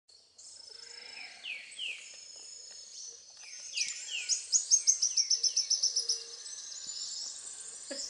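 Birds calling in forest: a few down-slurred whistles, then a fast run of repeated notes, about four a second, starting after three and a half seconds and tailing off, over a thin, high, steady trill.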